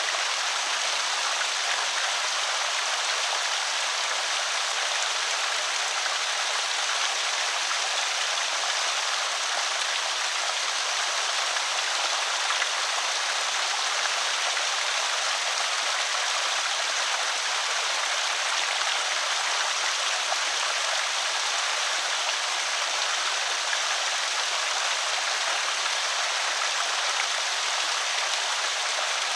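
Water spilling steadily over a small creek spillway, an even, unbroken rush and trickle.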